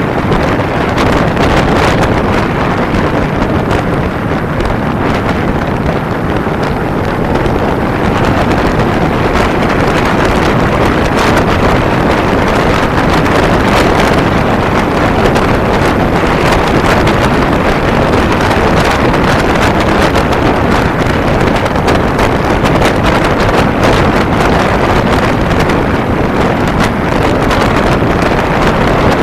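Steady, loud wind rushing and buffeting over the camera microphone on a moving motorcycle, with short gusty crackles throughout; the Kawasaki Ninja 250's engine is buried under the wind.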